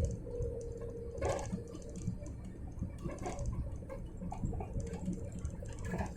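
Airliner cabin noise before takeoff: a steady low hum, with a thin steady whine that fades out about a second and a half in, and a few soft clicks and knocks.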